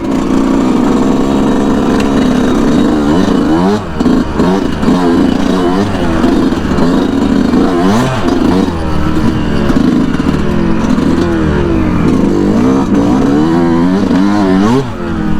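Yamaha YZ125 two-stroke dirt bike engine revving up and down again and again as it is ridden, its pitch rising and falling with throttle and gear changes. It briefly drops off about four seconds in and again near the end.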